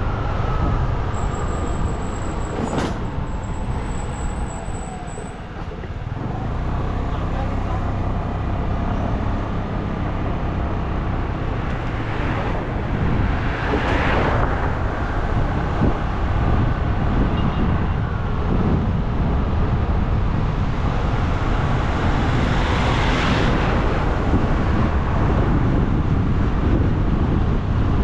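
Road noise heard while riding a bike along a road: a steady low rumble of wind and engine on the microphone. Other vehicles swell past twice, about halfway through and again near the end.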